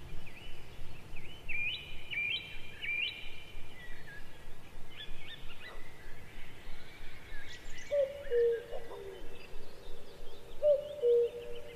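Birds calling: quick repeated high chirps, joined about eight seconds in by a lower call that repeats every second or two.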